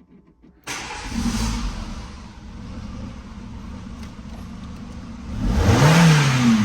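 Renault Scenic 1.6 K4M four-cylinder petrol engine starting up about a second in and settling to idle, then revved once near the end, the pitch rising and falling back. The engine now runs after the repair of the bad power supply to its engine control unit.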